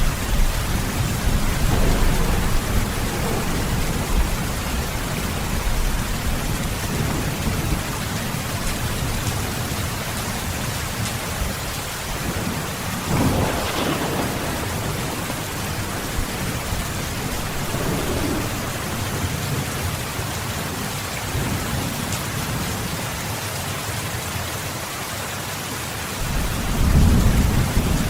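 Steady heavy rain with rolls of thunder: a deep rumble fading out over the first few seconds, a sharper peal about halfway through, and another low rumble building near the end.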